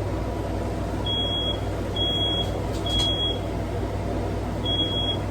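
Smoke alarm beeping in a smoky room: short, high single-pitch beeps about a second apart, four in all with a pause of nearly two seconds in the middle, over a steady low background rumble.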